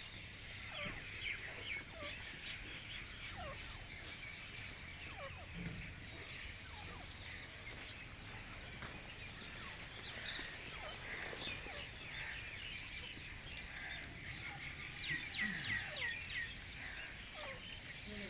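Many small birds chirping continuously, a busy chorus of short high calls, with domestic fowl clucking lower down now and then.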